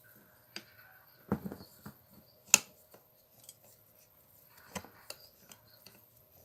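Scattered clicks and knocks of metal and plastic parts being handled while the wheel guard's clamp band on an angle grinder is tightened, with one sharp louder click about two and a half seconds in.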